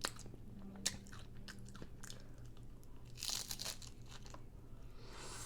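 Crunchy taco-boat shell being bitten and chewed close to the microphone: a few sharp crunches in the first two seconds, then a longer spell of crunching about three seconds in.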